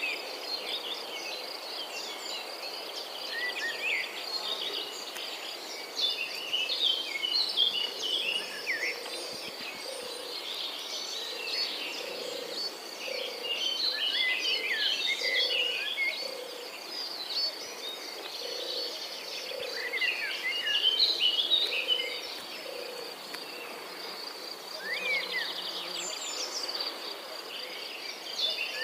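Outdoor nature ambience: many birds chirping and singing over a steady high insect trill, with a soft low call repeating through the middle.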